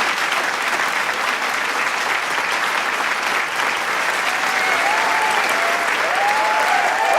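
Large crowd applauding steadily with dense clapping, and scattered voices cheering over it in the second half.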